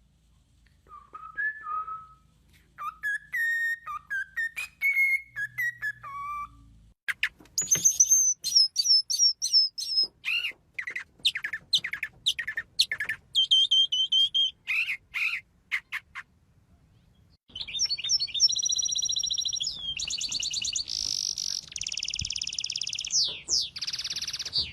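Bird song in several distinct phrases. First come lower whistled notes that slide up and down, then from about seven seconds in a rapid series of high chirps and falling notes, and after a short pause, fast high trills in the last third.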